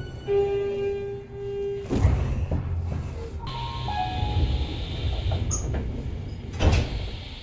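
Y500 series electric train running, heard from the gangway between cars: a low rumble of wheels on rail under a motor whine that holds one pitch, then steps down in pitch about halfway through. Two sharp clacks of wheels over rail joints, about two seconds in and near the end.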